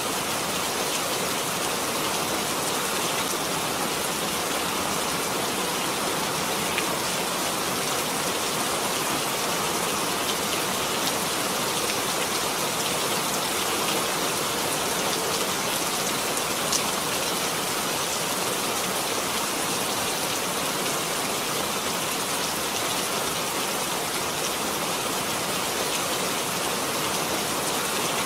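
Steady, continuous rainfall: an even hiss of rain with scattered sharper drops hitting a surface.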